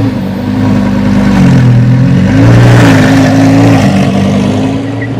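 Car engine running at a fast idle, revved up twice and held briefly each time, then dropping back down about four seconds in.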